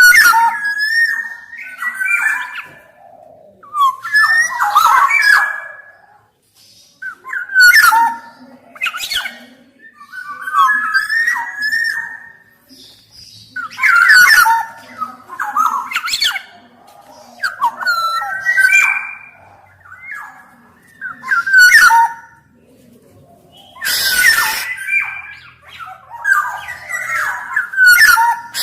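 Black-naped oriole (kepodang emas) singing in repeated short bursts of fluty whistled phrases mixed with harsher notes, a new phrase every two seconds or so.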